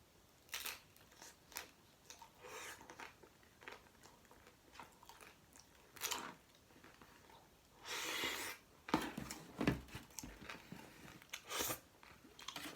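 Close-up mouth sounds of a person chewing a vegan chickpea curry and mashed potato taco: irregular wet crunches and clicks, loudest at about nine to ten seconds in, with a short rushing noise just before.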